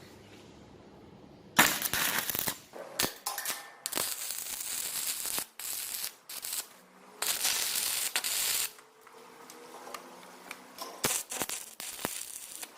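Several short bursts of electric arc welding on steel door-frame hardware, a crackling hiss that starts and stops abruptly over about seven seconds, followed by a few light metal knocks near the end.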